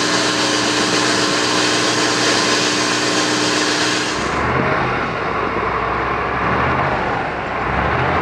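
Off-road trial truck engine running hard at high, steady revs under load, with a strong rushing noise on top. About four seconds in, the revs drop off to a rougher, lower rumble.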